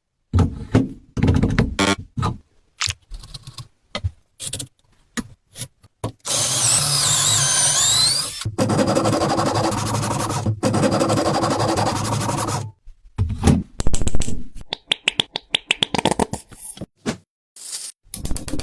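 Workshop sounds of a hammer handle being repaired, cut together in short pieces: brief knocks and scrapes, and from about six seconds in a power tool running steadily for about six seconds with a whine that rises and falls.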